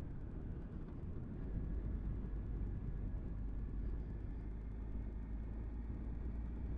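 Motorcycle on the move, heard through a bike-mounted camera: a steady low rumble of engine and wind noise. It gets a little louder about a second and a half in.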